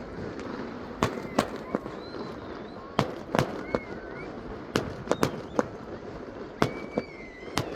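Fireworks display: about a dozen sharp bangs and cracks at uneven intervals, some coming in quick clusters.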